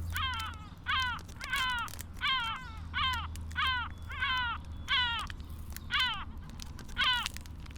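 A gull calling in a rapid series of about ten falling calls, roughly one every two-thirds of a second, over a low steady rumble.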